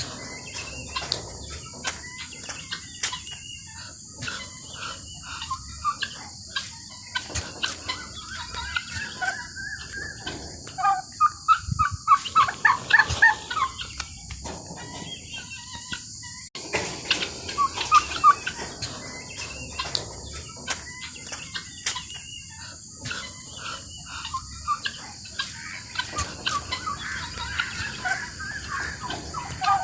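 Poultry calling: runs of short, rapidly repeated clucking calls, with a steady high-pitched hiss underneath.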